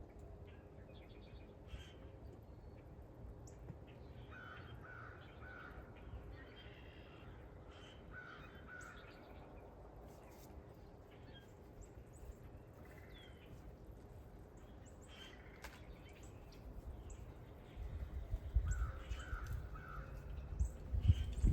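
Crows cawing in short runs of two or three calls, three times over, with a low rumble near the end.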